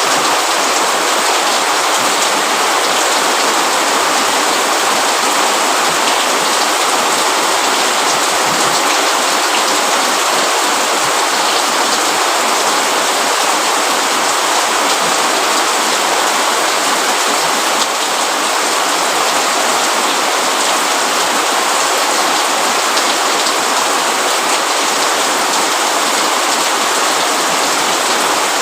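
Steady heavy rain, a constant hiss of drops falling on surfaces with no let-up.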